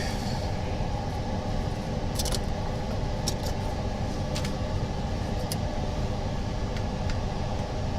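Steady low machine hum, with a few faint, light clicks spread through it.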